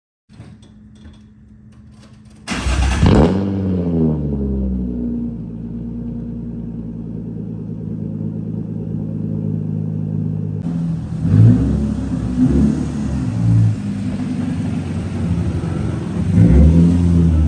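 A car engine starts with a sudden flare of revs that falls back to a steady idle. Later it idles with several short throttle blips.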